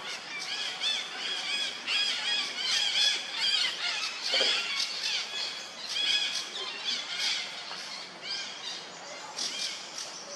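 Birds chirping, many short arched chirps overlapping one another, thinning out toward the end, with one lower gliding call about halfway through.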